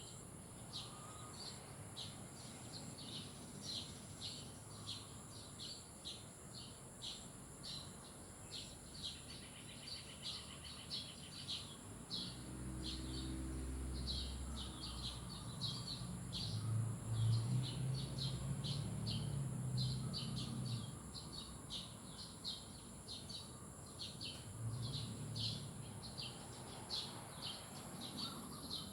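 Small birds chirping in quick, short, high calls, many each second, over a steady high hiss. About twelve seconds in, a low rumble swells for several seconds, loudest a little past halfway, then fades.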